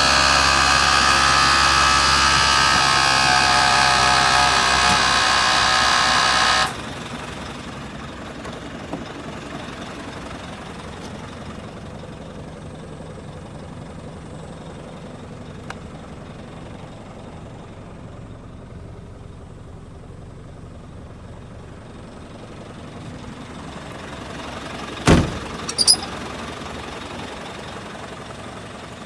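Isuzu Giga heavy truck's diesel engine running loudly at a steady pitch, cutting off suddenly about seven seconds in, leaving a much quieter low background. Two short, sharp sounds come close together near the end.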